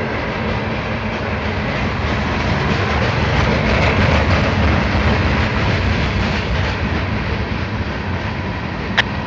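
A train's cars rolling past on the rails, a steady rumble and rattle that swells slightly in the middle, with a single sharp click near the end.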